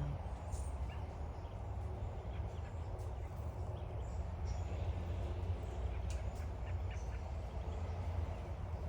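A flock of songbirds gathered around bird baths, many of them American robins, calling with short scattered chirps over a steady low rumble.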